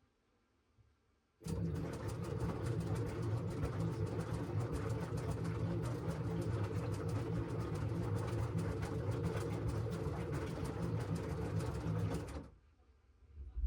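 LG washing machine mid-wash: the drum starts turning about a second and a half in, with a steady motor hum and a rapid churning of laundry and water. It runs for about eleven seconds and stops sharply near the end, pausing between tumbling phases.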